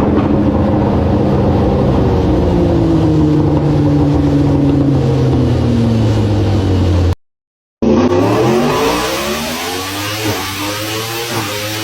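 Superbike engine and exhaust running hard, its note sliding slowly down in pitch for about seven seconds. After a sudden cut to silence, another superbike engine note sweeps up in pitch and then settles lower.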